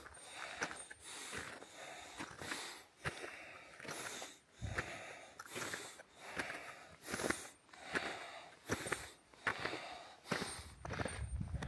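A hiker's footsteps crunching through snow at a steady walking pace, about two steps a second, with hard breathing.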